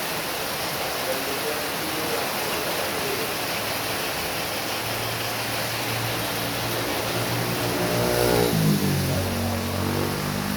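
Heavy rain falling steadily. A motor vehicle's engine hum builds from about halfway through and is loudest, its pitch shifting, around eight seconds in, as it passes along the wet road.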